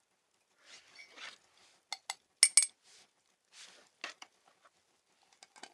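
Sharp clinks and knocks of a mug, spoon and coffee container being handled while making instant coffee, with softer rustling between. The loudest clinks come as a quick group about two seconds in.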